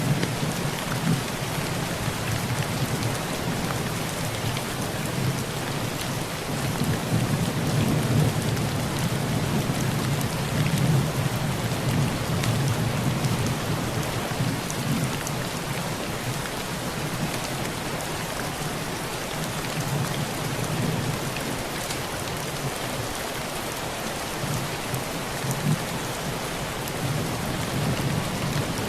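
Heavy rain pattering steadily on a tin roof, with low rolls of thunder that swell about a quarter of the way in and rumble on for several seconds before easing, returning more faintly later.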